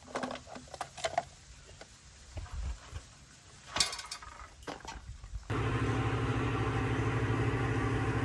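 A few scattered clicks and knocks, then, about five and a half seconds in, an engine starts running abruptly at a steady idle.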